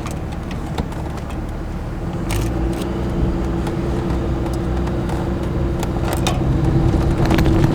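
Diesel truck engine pulling hard under load in low range, getting louder from about two seconds in, with a steady whine rising over the rumble and a few knocks and rattles.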